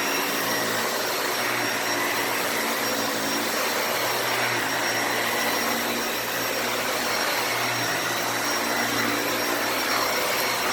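Dyson Ball Animal 2 upright vacuum running steadily on deep carpet: a rushing suction noise with a thin high motor whine, its brush roll agitating the pile. Debris is heard rattling up through it as it picks up shredded paper and cat hair.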